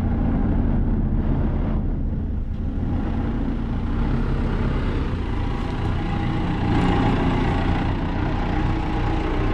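Diesel engine of a Cat telehandler running steadily with a heavy low rumble, and a faint whine partway through.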